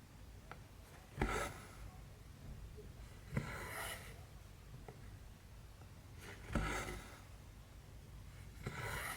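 Cross-stitch thread drawn through 14-count canvas four times, each pull a short swish, with faint little clicks of the needle between the pulls.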